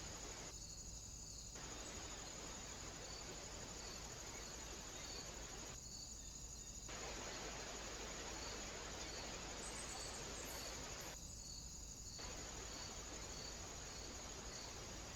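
Steady microphone hiss with a faint, even high-pitched chirring throughout. The hiss under it drops away briefly three times.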